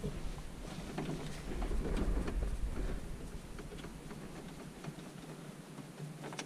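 Scattered light clicks and rattles of hand tools and small parts as a tractor's cab console is taken apart, over a low rumble that fades out about halfway through.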